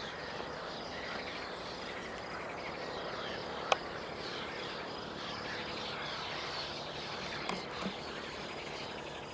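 Dense chorus of many small birds chirping at once, short overlapping chirps that keep on steadily. A single sharp click near the middle is the loudest moment.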